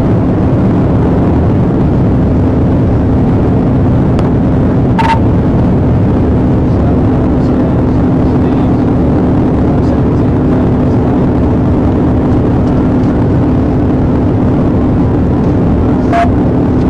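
Police patrol car driving fast in a pursuit: loud, steady engine and road noise with a constant low hum. A few short clicks come through, about five seconds in and again near the end.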